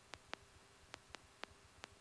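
Near silence on the aircraft's radio and intercom audio feed: a faint hiss crossed by six short, sharp clicks at irregular intervals.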